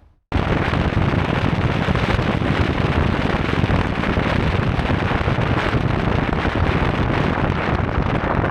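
Steady, loud rushing of wind buffeting the microphone, with a deep rumble underneath, starting abruptly just after the start.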